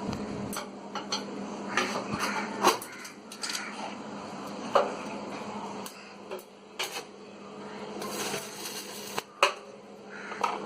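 Tack-welding on a front-load washing machine's steel drum to lock loose screws in place: irregular crackles and metallic clinks over a steady low hum, with a stretch of hissing about eight seconds in.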